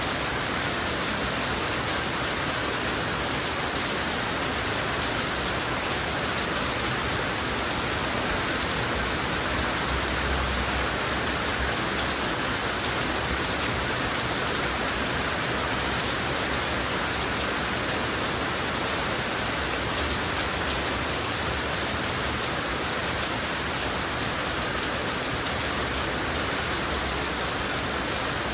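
Heavy rain falling steadily, a dense, even hiss of drops on hard surfaces.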